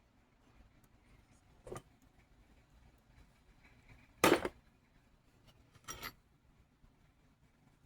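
Small hard objects clattering on a hard work surface three times, the middle clatter the loudest and the last a quick double knock.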